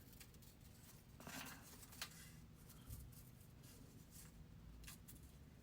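Near silence: room tone with a faint hum and a few small, scattered clicks and rustles.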